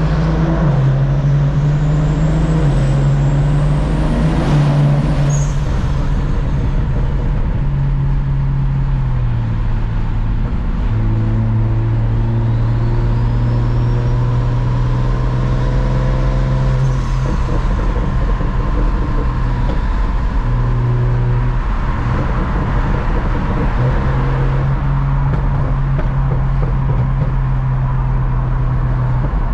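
A car driving, its engine drone and road noise steady and loud, the engine pitch dropping and rising a few times.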